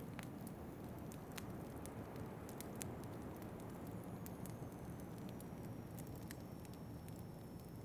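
Fireplace crackling, with scattered sharp pops and clicks over a steady low rumble of wind. A faint high whistle slowly drops in pitch from about halfway.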